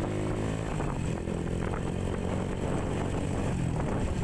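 Honda CB motorcycle engine running steadily while being ridden, with road and wind noise.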